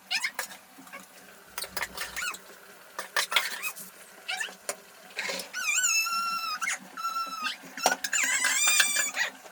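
High-pitched animal cries: three drawn-out, wavering calls in the second half, after scattered clicks and knocks.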